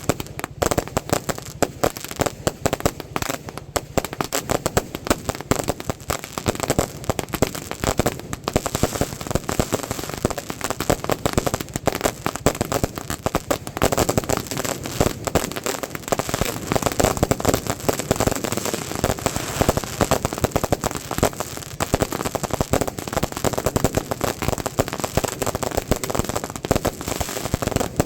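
Fireworks and firecrackers going off in a dense, continuous run of rapid bangs and crackles, with no pause.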